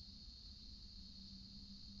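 Near silence, with a faint steady high-pitched drone and a low rumble.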